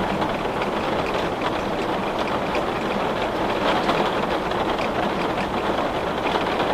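Steady rain falling on a window: an even hiss with many small drop ticks scattered through it.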